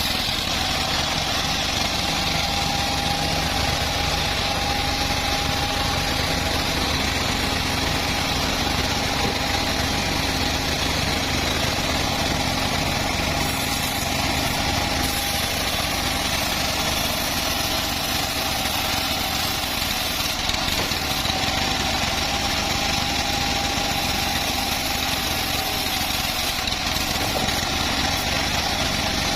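The engine-driven machinery of a homemade log sawmill running steadily, with a constant low hum and a faint whine that comes and goes.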